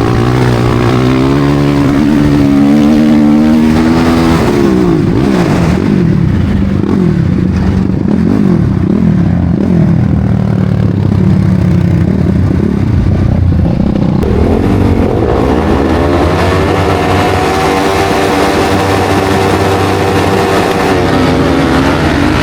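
Studded ice-racing motorcycle engines revving up and down in a race, with several overlapping engine pitches rising and falling at once around the middle.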